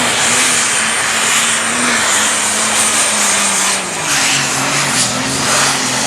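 Diesel super stock pulling tractor under full load, its engine running hard with a thin high whistle over it; about four seconds in the engine note drops and the whistle stops.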